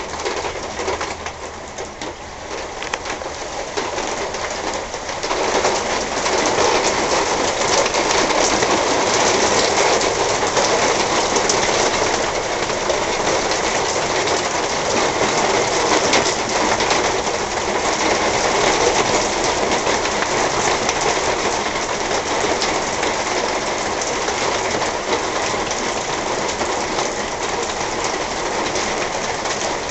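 Heavy thunderstorm rain pouring down in a dense, steady hiss that swells about five seconds in and stays loud.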